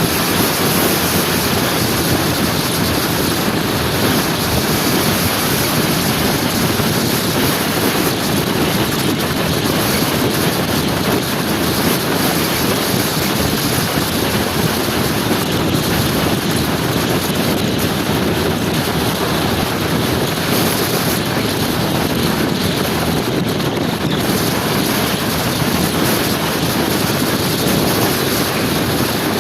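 Steady wind rushing over the microphone mixed with the running noise of a motor scooter being ridden at a constant speed, without changes in pitch or level.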